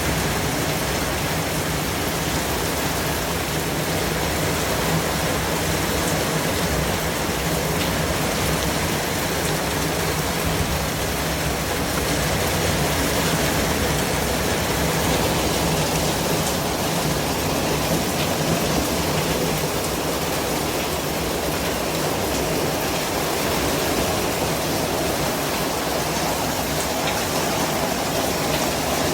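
Steady white noise: an even, unbroken hiss spread across low to high pitches, with no rhythm or changes.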